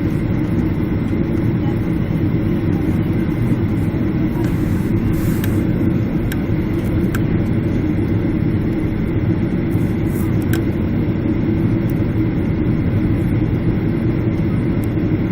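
Steady low rumble of a Boeing 767 airliner's engines and airflow, heard inside the passenger cabin, with a few faint clicks.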